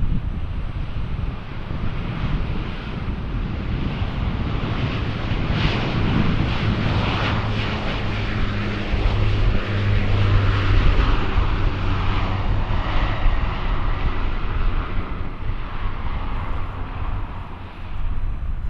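Airliner taking off, its engine noise building to its loudest about ten to thirteen seconds in and then easing off, with wind rumbling on the microphone.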